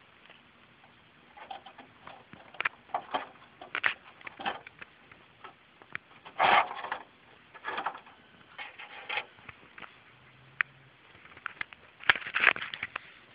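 Irregular clicks, knocks and clatter of camp cooking gear being handled to make espresso, with a louder scrape-like burst about halfway through and another near the end.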